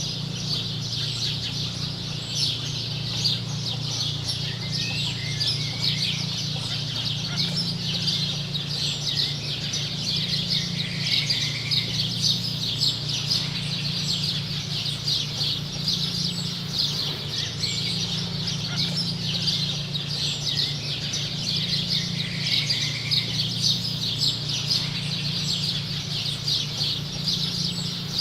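Dense, continuous chirping of birds, with a few short lower calls, over a steady low hum.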